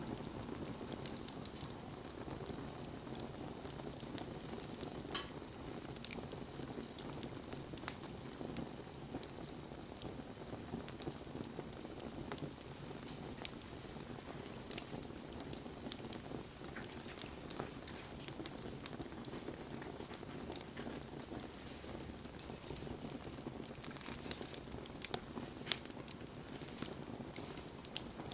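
Wood fire burning: a steady low rush of flame with scattered sharp crackles and pops, a few louder pops near the end.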